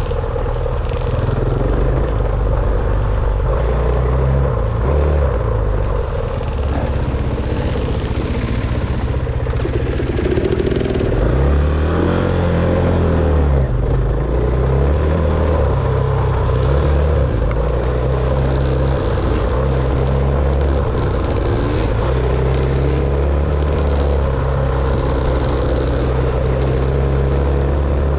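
Dirt bike engine running as the bike is ridden, its revs rising and falling with the throttle, including a clear rev up and back down about twelve seconds in.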